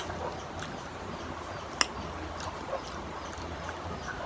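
Chewing crisp unripe green mango, with a few sharp crunches, the loudest about two seconds in, over a steady low background hum and hiss.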